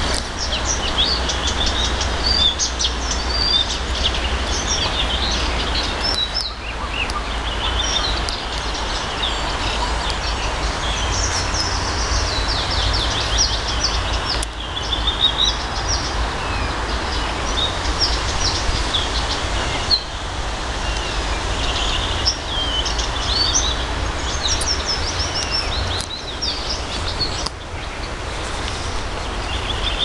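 Several songbirds singing and chirping at once, a dense chorus of overlapping short trills and high chirps. A steady low rumble runs underneath.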